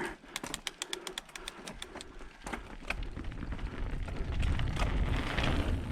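Rapid run of clicks from a 2014 Transition Covert 26er mountain bike's drivetrain as the rider shifts into gear and sets off. About two and a half seconds in, it gives way to a rising low rumble of tyres on dirt and wind as the bike picks up speed.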